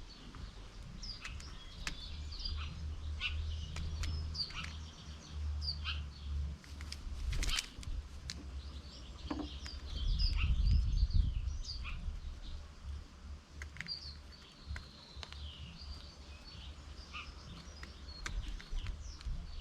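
Garden birds chirping, with many short high calls, over a low rumble that is loudest about halfway through.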